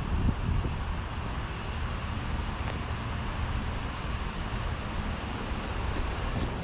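Wind rumbling on the microphone over a steady hiss of rain.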